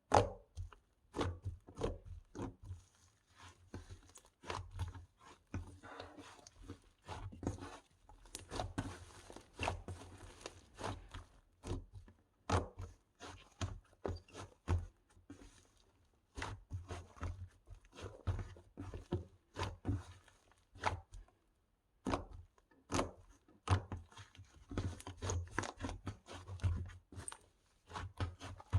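Slime being mixed and worked by hand: pressed, stretched and poked, giving irregular sticky clicks and small pops, with a few short pauses.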